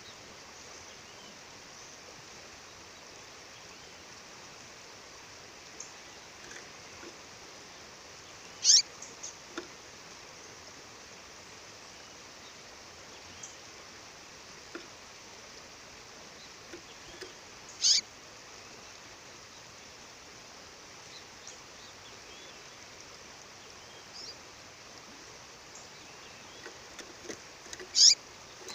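Steady rush of a waterfall with a female bird's short, high call three times, about ten seconds apart, and faint chirps in between.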